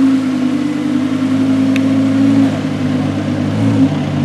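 Audi R8 V10 Plus's V10 engine, breathing through an Akrapovic exhaust, running steadily at low revs as the car creeps along, with only small shifts in pitch.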